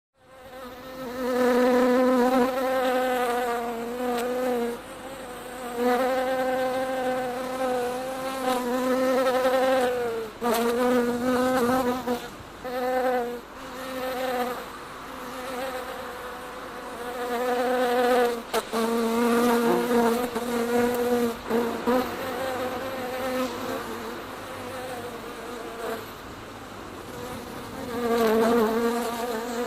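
A bee buzzing in flight: a low drone whose pitch wavers slightly and whose loudness swells and fades as it moves about, breaking off briefly a few times.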